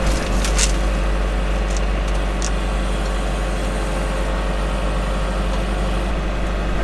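John Deere 6430 tractor's diesel engine running steadily at a constant speed, with a few light clicks in the first couple of seconds.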